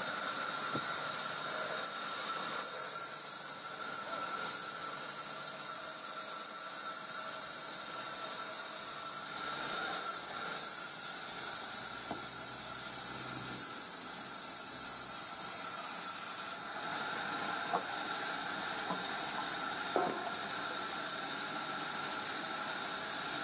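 Sawmill saw running through coconut-palm timber: a steady hiss with a high whine. The sound grows brighter a couple of seconds in, eases about two-thirds of the way through, and has two short knocks after that.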